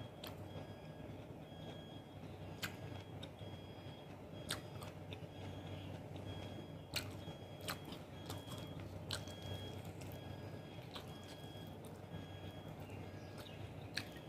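Close-miked chewing of barbecued chicken, with sharp wet mouth clicks now and then.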